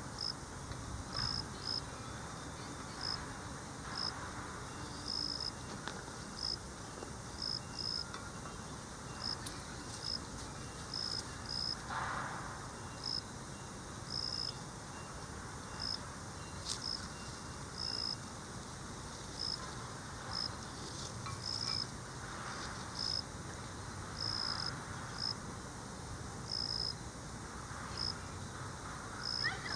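A singing insect in autumn, giving short high chirps about once a second, irregularly spaced, over a faint steady insect trill. There are soft rustles now and then, with a stronger one about twelve seconds in.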